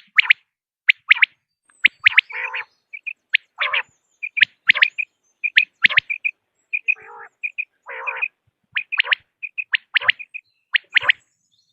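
Common quails calling: short, sharp high notes repeated in quick groups of two or three, mixed with several lower, rasping calls.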